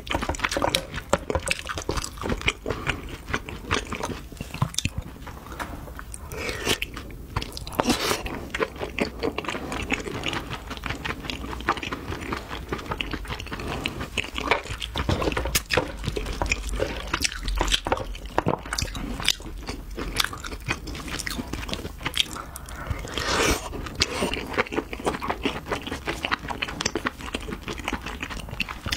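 Close-miked chewing of a mouthful of crab meat: many quick wet clicks and smacks from the mouth.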